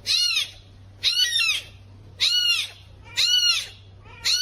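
An animal giving the same high, rising-and-falling cry over and over, about once a second, each cry about half a second long.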